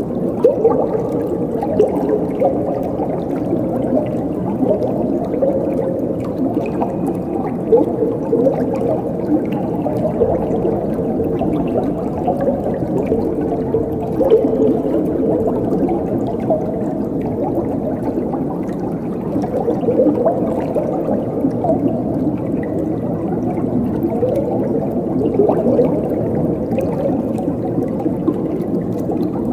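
Flowing water gurgling steadily, a full, low-pitched bubbling without hiss.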